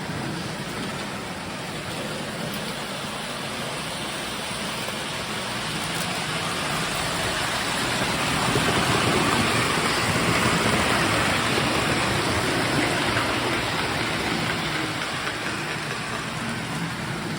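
Lionel O-gauge electric toy train running on metal track, a steady rolling rumble and motor whir that swells as the train comes close about halfway through and then fades as it moves away.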